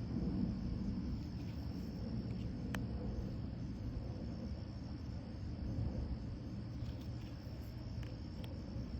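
Steady low background rumble with a thin steady high tone over it, and a few faint soft clicks.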